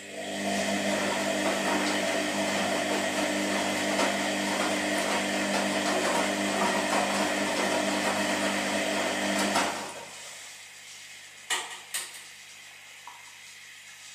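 Washing machine running with a steady motor hum and whir for about nine and a half seconds, then stopping suddenly. Two sharp clicks follow about two seconds later.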